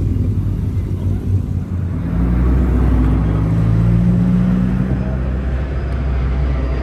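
Car engine running, growing louder with a slight rise in revs about two seconds in, then holding steady.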